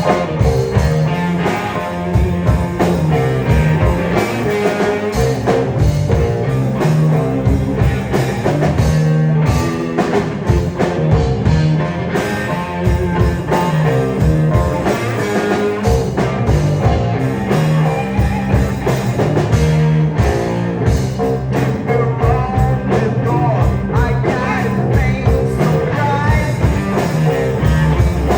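Rock band playing live, with electric guitar and drums driving a steady beat.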